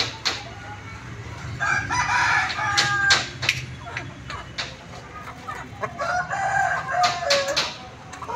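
Aseel roosters crowing: two long crows, the second starting about six seconds in, with a few sharp clicks in between.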